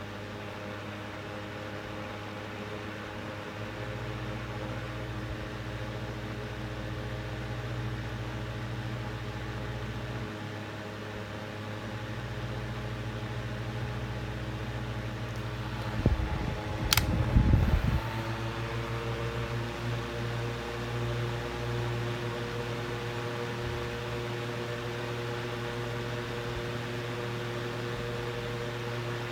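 9-inch True Living box fan running with a steady motor hum and blade whoosh. About two thirds of the way through there is a short bout of knocking with a sharp click, and afterwards the hum's tones shift slightly and carry on steadily.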